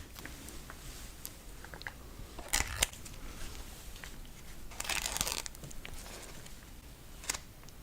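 Crinkling and tearing of packaging, close to the microphone: a few short sharp crackles, then a longer crinkle in the middle and one more crackle near the end.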